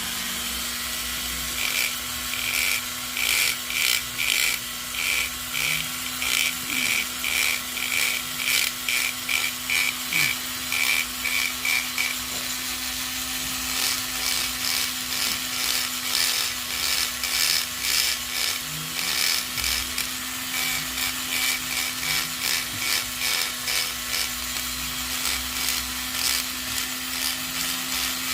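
Electric rotary carving tool running steadily while its bit grinds into buffalo horn in short repeated strokes, about two rasps a second, pausing briefly around the middle.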